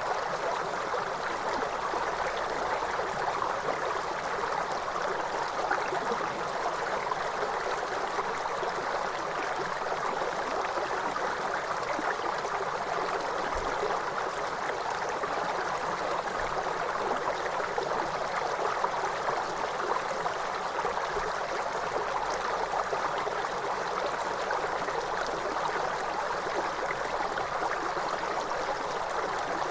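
Waterfall: falling water making a steady, even rush with no pauses or changes.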